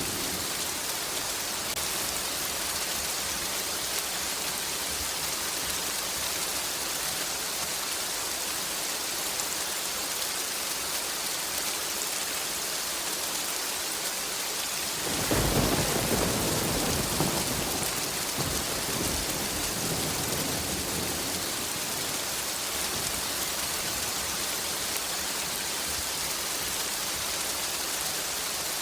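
Steady heavy rain hissing, with a roll of thunder breaking in suddenly about halfway through and rumbling away over several seconds.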